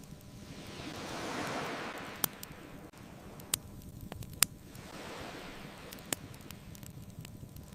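Ocean waves washing onto a beach in two slow swells, with the sharp pops of a crackling wood bonfire over them, about four distinct pops.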